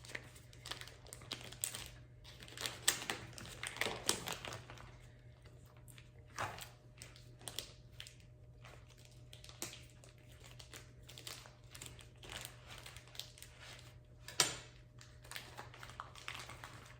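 Plastic packaging of a whole raw chicken crinkling and rustling as it is cut open with a knife and pulled off, in faint irregular crackles and clicks, with one sharper knock about fourteen seconds in.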